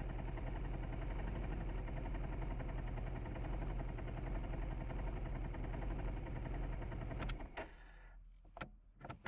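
Suzuki Skywave 400 scooter's single-cylinder engine running steadily, then stopping about seven seconds in, followed by a few short clicks.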